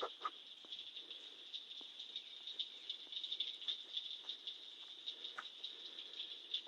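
Faint chorus of calling frogs: a steady, high-pitched pulsing trill that carries on throughout, with a few small clicks over it.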